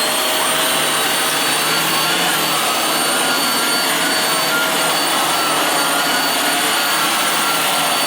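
Hoover WindTunnel Air upright bagless vacuum cleaner running steadily just after being switched on: a rush of air with a steady high-pitched whine from the motor.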